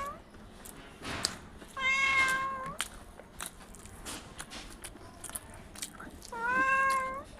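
A cat meowing twice, each a steady call of about a second, with faint clicks between the calls.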